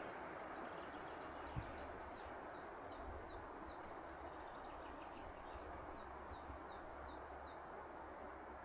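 A small songbird sings two phrases of repeated high, down-slurred notes over a steady rushing background.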